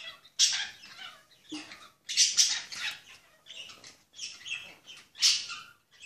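Pet birds chirping and calling in a run of short, high-pitched bursts, with three louder calls about half a second, two seconds and five seconds in.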